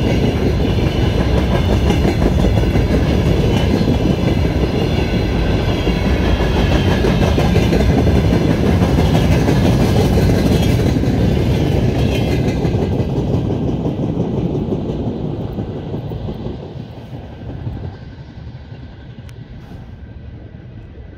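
Freight train of covered hopper wagons rolling past, a steady loud rumble of steel wheels on the rails. About two-thirds of the way through the last wagon goes by and the sound fades away.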